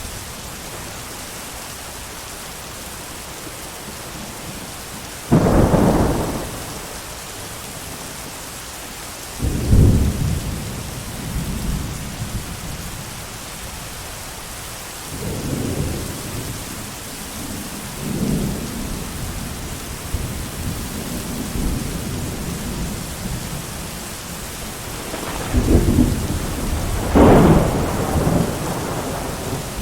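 Steady rain with thunder rolling several times: a sudden loud clap about five seconds in, lighter rumbles after it, and two loud peals near the end.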